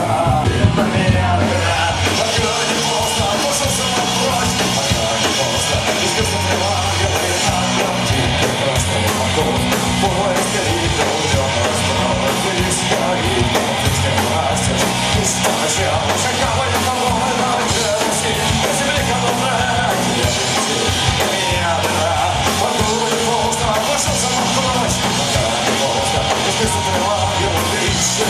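A punk rock band playing live and loud: electric guitars, bass and drum kit going steadily through an instrumental passage, with no clear singing.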